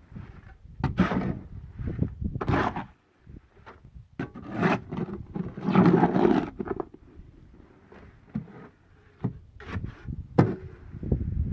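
Irregular scraping and knocking of hand tools working concrete, with several sharp knocks and a longer stretch of scraping in the middle.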